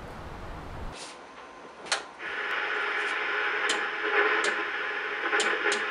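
Old television's rotary channel knob being turned, a string of sharp clicks, over steady hiss of on-screen static that comes in about two seconds in.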